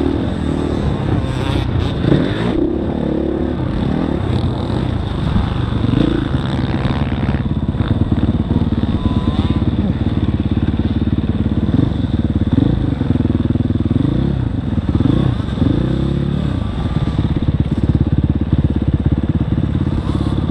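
Motocross dirt bike engine revving up and falling back again and again as it is ridden, its pitch climbing and dropping every second or two.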